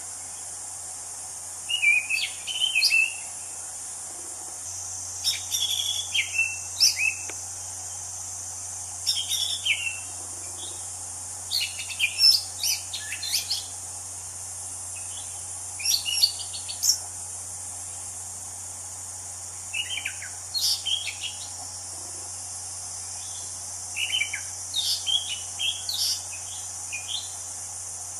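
Anis cendana thrush singing short, varied phrases of quick sliding whistled notes, one phrase every few seconds with pauses between, over a steady high hiss.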